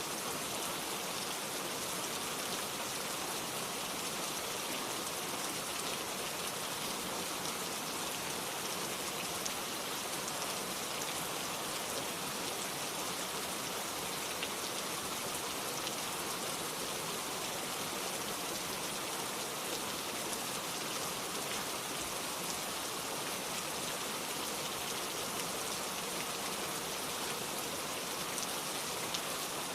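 Steady rainfall: an even hiss of rain with many small drop ticks, unchanging throughout.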